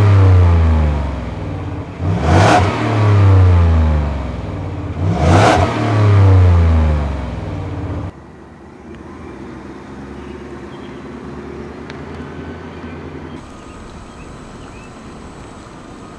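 Ford F-150 Lobo's V8 engine being blipped again and again through its exhaust, each rev a sharp rise followed by the revs falling away, about every three seconds. A little past the middle the revving cuts off suddenly, leaving a quieter steady low rumble.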